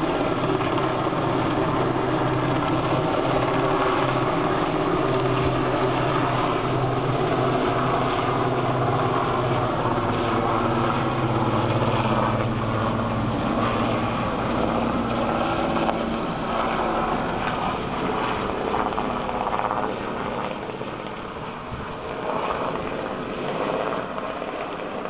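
RAF rescue helicopter's rotors and turbine engines running steadily, with a low even drone. The sound fades away over the second half.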